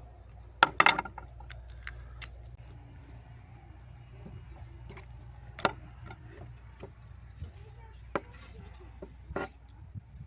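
A few scattered sharp knocks and clicks, the loudest cluster about a second in, over a low steady hum.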